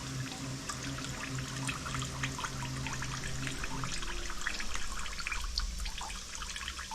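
Diesel fuel trickling and dripping as it is drained out of the old fuel filter of a BMW N57 diesel engine, with many small drips throughout. A steady low hum underneath stops about four seconds in.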